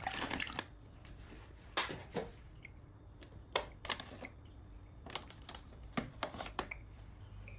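Scattered small water splashes and light knocks, about nine short strokes at uneven intervals, as a newly arrived snakehead fish is handled in water while being acclimated.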